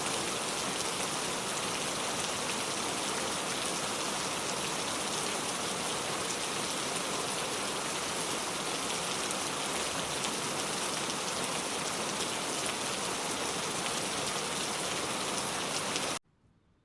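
Steady, dense rainfall: a constant hiss of rain on a surface with fine patter of individual drops. It cuts off abruptly near the end, leaving near silence.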